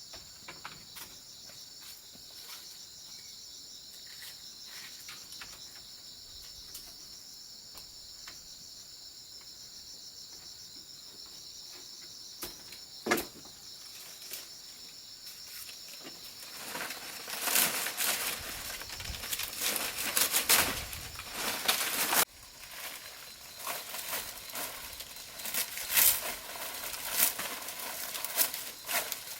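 Insects droning steadily at a high pitch. About halfway through, loud dry rustling and crunching starts, like leaves being handled or crushed, broken by sharp crackles.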